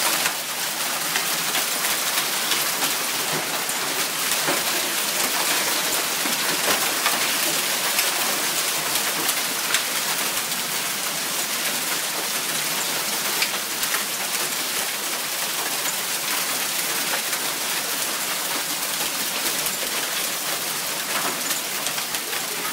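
Hail pelting down steadily, a dense patter of many sharp ticks from hailstones striking surfaces.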